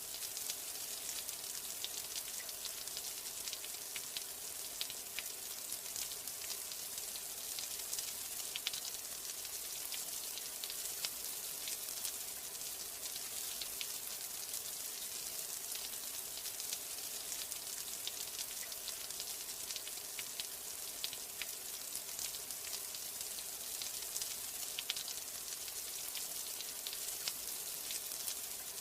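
Steady rain, a dense hiss of fine drops with many small scattered patters.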